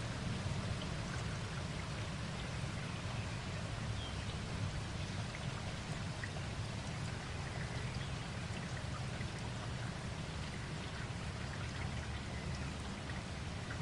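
Steady rain, an even wash of noise with faint scattered drop ticks.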